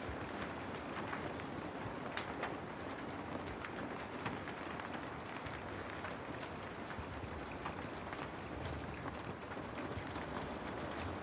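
Steady rain falling on a window: an even hiss of rain with scattered sharper hits of single drops.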